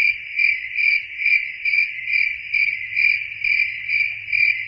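Cricket chirping: a continuous high-pitched trill that swells in loudness about twice a second.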